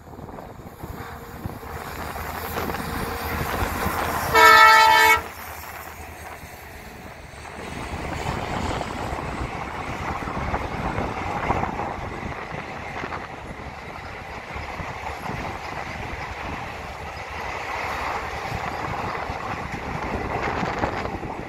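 Passenger train's horn sounding one short blast about four seconds in. From about seven seconds, the steady rolling noise of the express's coaches running along the track on a curve.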